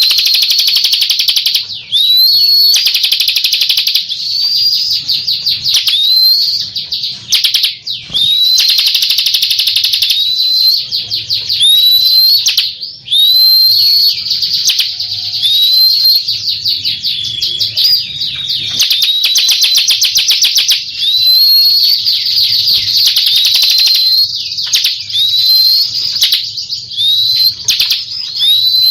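Bar-winged prinia (Prinia familiaris) singing without pause: high-pitched rapid trills, each phrase marked by a quick rising whistle, repeated every second or so.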